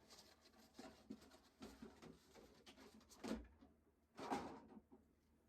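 Faint handling noises in a small room: light clicks and rustles, with two brief louder knocks about three and four seconds in.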